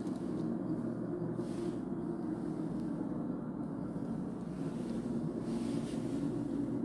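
Steady low mechanical hum and rumble, holding even throughout.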